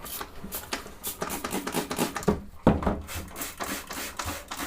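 Irregular clicks, taps and scrubbing as a Naumann 65 vintage sewing machine is cleaned by hand with solvent.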